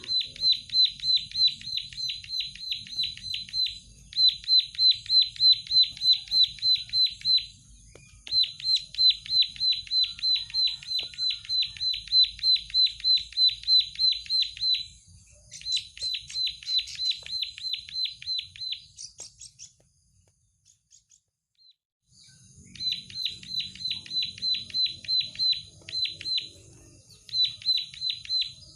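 Plain prinia singing: long runs of identical sharp notes repeated at about five a second, in phrases of several seconds with short breaks, and one pause of about two seconds past the middle.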